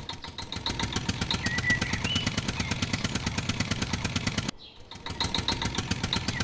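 A small DIY mini tractor's motor running with a rapid, even clatter of about a dozen ticks a second. It cuts out briefly past the middle, then runs again.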